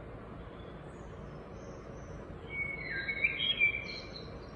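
Bird chirping in the background: a short run of chirps about two and a half to four seconds in, over steady low background noise.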